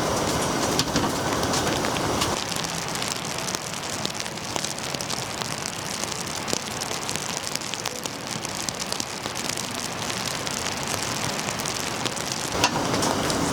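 Rain pattering steadily, a dense patter of many small drop ticks. It drops in level a little over two seconds in and picks up again near the end.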